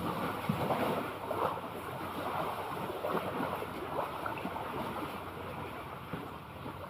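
Sea water washing and lapping, with wind rumbling on the microphone.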